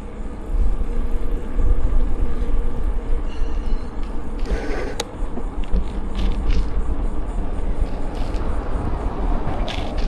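Wind buffeting the microphone of a camera riding along on a bicycle: a loud, uneven low rumble, with a few brief clicks from about halfway through.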